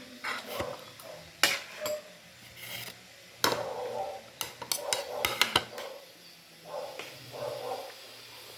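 Cutlery and dishes clinking and knocking as a meal is handled, with a run of quick sharp clicks about halfway through.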